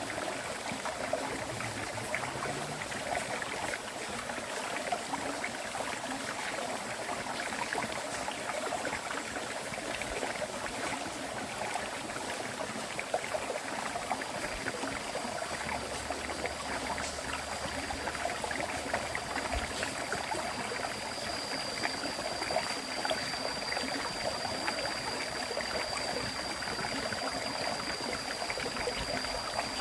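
River stream flowing, a steady rush of water with many small splashes. A thin, steady high tone comes in about halfway through and carries on to the end.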